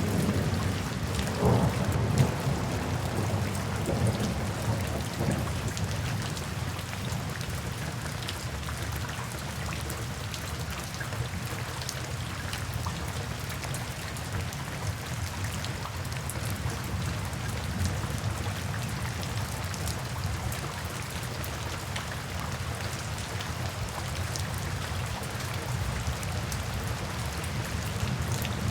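Steady rain with scattered drop ticks, and a low rumble of thunder in the first few seconds that then dies away.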